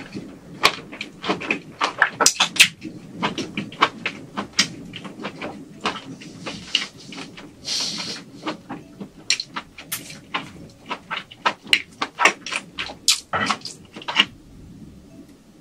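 Close-miked chewing of shrimp: a fast, irregular run of wet clicks and smacks from the mouth, with a short breathy hiss about eight seconds in. The chewing stops about a second before the end.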